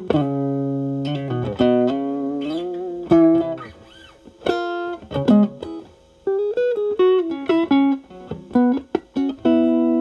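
Fender Stratocaster played through an Xotic AC Plus overdrive pedal's Channel A, its gain set to zero, into a Marshall Valvestate amp. Single-note blues licks with string bends and held notes, broken by a couple of short pauses.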